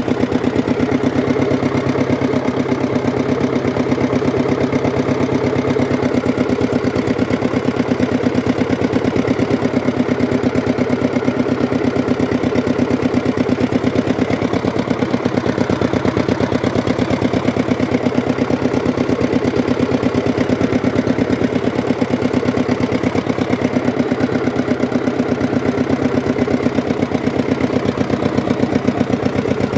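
Hatz diesel engine running at a steady speed, with an even, rapid beat of firing strokes and no change in speed throughout.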